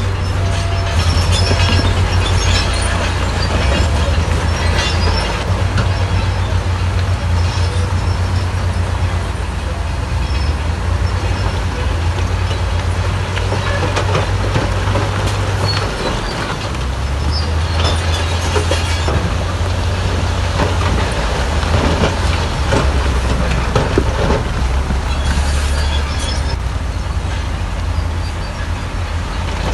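Bulldozer's diesel engine running under load, a steady low rumble whose note drops about halfway through, with metallic squealing and clanking from the crawler tracks.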